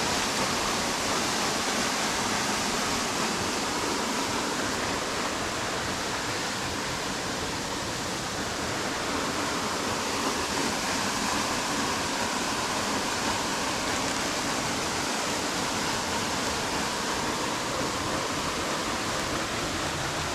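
Waterfall, water falling and rushing in a steady, unbroken roar of white noise at an even level.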